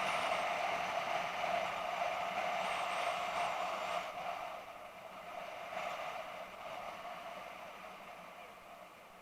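Steady vehicle and road noise, gradually fading away over the second half.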